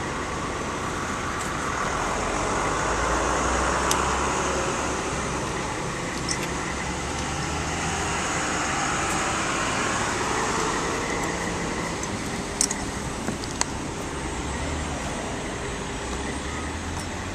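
Diesel engine of a Bobcat T750 tracked skid steer running steadily, swelling a few seconds in and then easing back. A few short knocks near the end.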